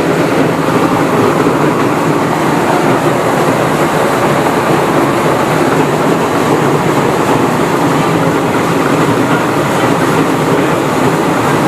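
Rice milling machine running steadily under load, a continuous loud mechanical rattle and hum as rice is processed.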